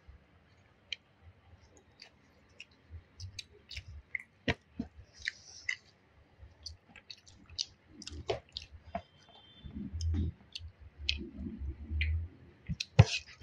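Eating sounds at a meal of chicken curry: chewing and mouth noises, with many short sharp clicks and smacks and a few low murmuring patches.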